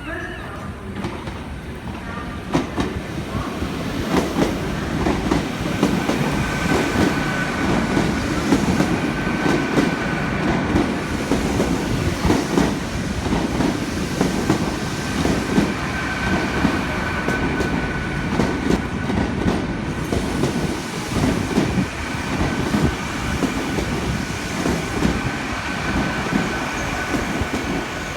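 A passenger train running through the station close by, its wheels clacking over the rail joints, with a thin steady high squeal above the rumble. It grows louder about four seconds in and stays close.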